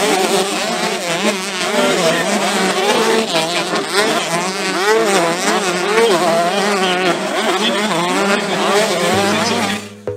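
A pack of 125cc motocross bikes racing, several engines overlapping, their notes rising and falling as riders rev through the gears and back off. The engine noise cuts off abruptly just before the end.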